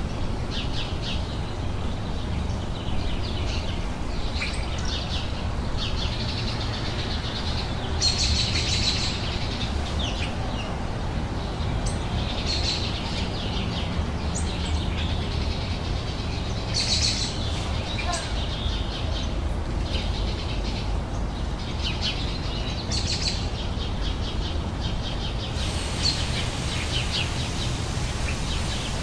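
Several songbirds chirping and singing outdoors in short calls and trills, over a steady low rumble.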